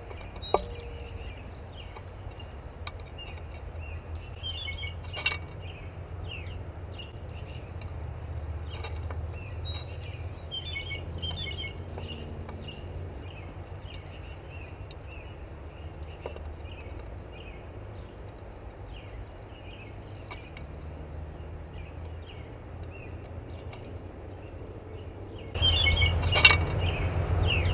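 Small birds chirping at a feeder, short scattered calls over a steady low rumble. Near the end the sound gets louder and a blue jay's odd, squeaky call starts.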